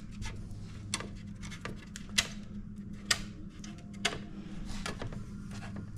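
Wooden toothpicks, set hard in holes in a camper door, being snapped off one after another: short, sharp snaps about once a second over a steady low hum.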